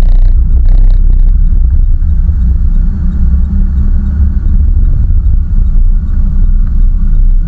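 Land Rover Freelander 1 Td4's BMW M47R four-cylinder turbodiesel and drivetrain running as it drives through snow, a loud, steady low rumble. Two short clatters come in the first second.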